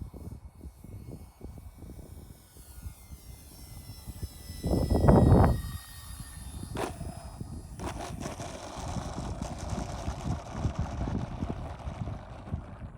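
Twin electric motors and propellers of an E-flite Twin Otter model plane whining, the pitch sliding slowly down over several seconds. Wind buffets the microphone throughout, with one loud gust about five seconds in.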